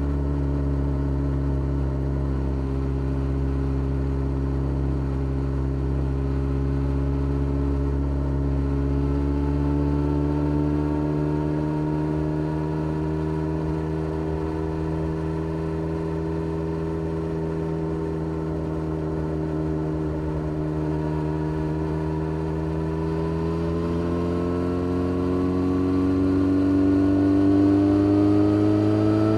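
2013 Yamaha XJ6-S's 600cc inline-four engine running through a full Black Widow exhaust with no catalytic converter. The note holds steady, then rises slowly in pitch through the second half as the revs climb, climbing faster and getting a little louder near the end.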